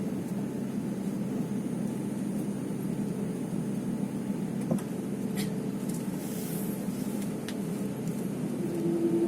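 Airbus A350-900's Rolls-Royce Trent XWB engines running steadily at low power: a constant hum over a rush of air, with a few faint clicks. Near the end the sound grows louder and a new steady tone joins in.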